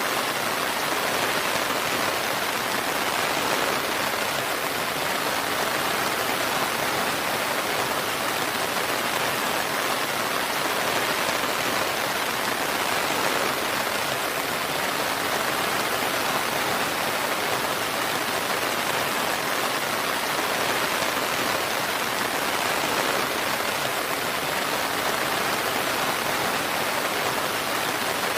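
Steady rain, falling evenly as a continuous hiss with no letup and no thunder.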